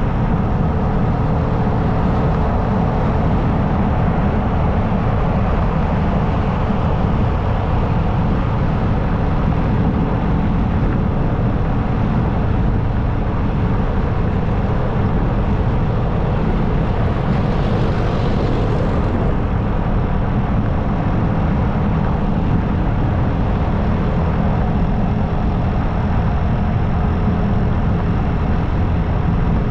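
Motorcycle riding at steady highway speed: the engine's drone mixed with a steady rush of wind noise, with a brief rise in hiss just past the middle.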